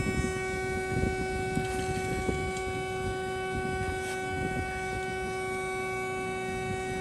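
Mega BS-360SA horizontal band saw raising its saw head: a steady, multi-toned machine whine from the hydraulic lift, over a low rumble.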